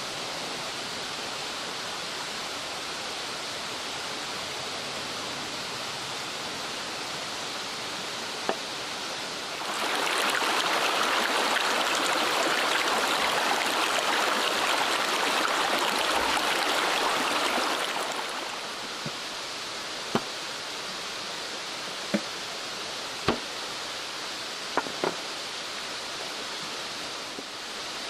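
Flowing water of a clear mountain stream, a steady rush that grows louder for about eight seconds in the middle. A few sharp clicks or knocks sound over it in the second half.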